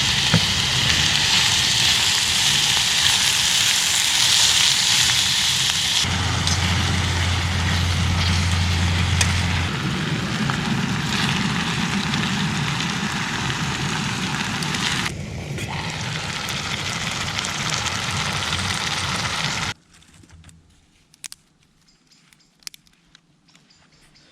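A fire burning with a steady loud hiss and a few crackles, changing abruptly twice as if in separate clips, then cutting off about twenty seconds in to quiet with a few small clicks.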